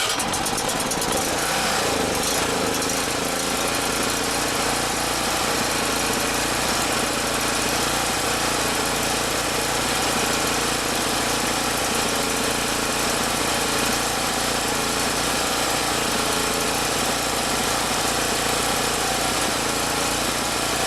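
Champion portable generator's small single-cylinder four-stroke engine running steadily just after starting, its carburetor freshly cleaned.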